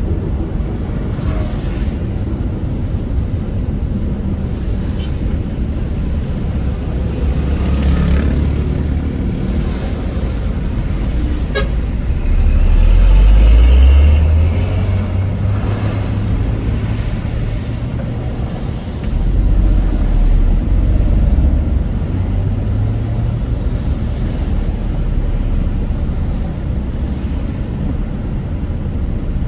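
Car driving on a wet road: a steady low rumble of engine and tyres with road spray, the engine note rising and getting louder twice as the car accelerates, about twelve seconds in and again about twenty seconds in.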